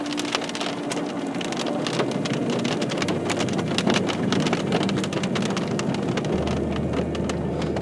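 Steady rain falling on a car's roof and windshield, heard from inside the car as a dense patter of drop hits.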